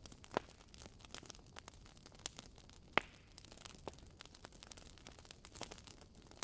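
Firewood crackling as it burns in a fireplace: irregular sharp snaps and pops, the loudest about three seconds in.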